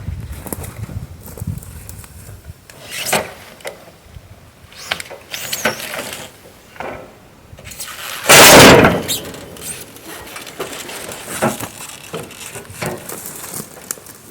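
Scattered knocks, clanks and scrapes as heavy bandsaw-mill parts are handled and shifted, with one louder scrape lasting about a second some eight seconds in.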